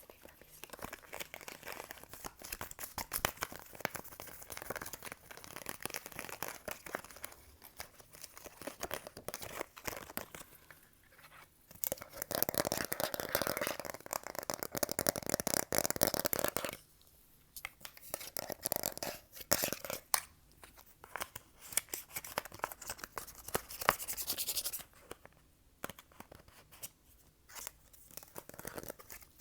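Fast, close-miked ASMR tapping and hand sounds: a dense run of quick clicks and taps, with two louder stretches of continuous rustling, about twelve and twenty seconds in.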